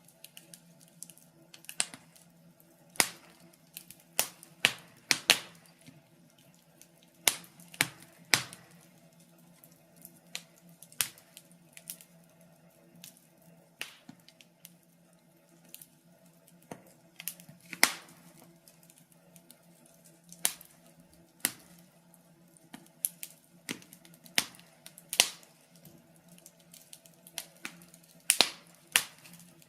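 Wood fire crackling in a fireplace: irregular sharp pops and snaps of burning logs, some loud and some faint, over a faint steady low hum.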